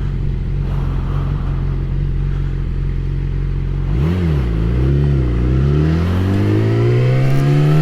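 Yamaha R6 inline-four motorcycle engine running at a steady pitch, which wavers up and down about four seconds in and then rises steadily as the bike accelerates.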